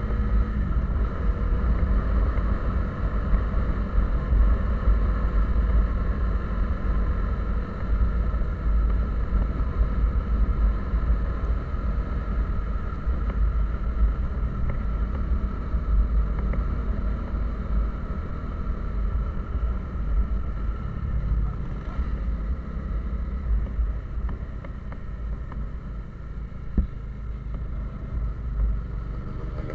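A vehicle driving along: a steady engine drone over a heavy low road rumble.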